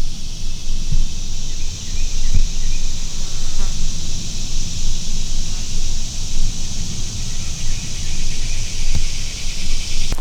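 Steady, unbroken high buzzing of an insect chorus in summer woods, with a low rumble and a few soft thumps underneath.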